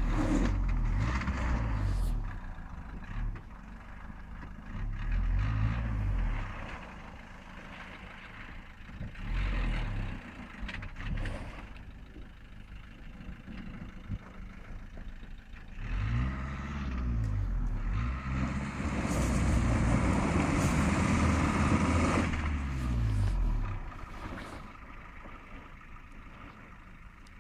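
Dacia Duster 4x4 engine revving in repeated surges under load on a steep, loose slope. The pitch climbs and falls several times. The longest and loudest surge comes about two-thirds of the way through, with a rushing hiss over it.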